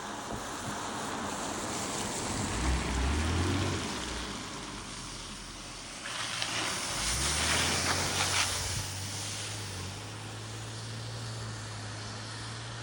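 Rushing wind and wet-road rolling noise from a downhill skateboard run in the rain. A low steady hum comes in about a third of the way through and again from the middle onward, and the hiss swells with a crackly spray-like surge around the middle.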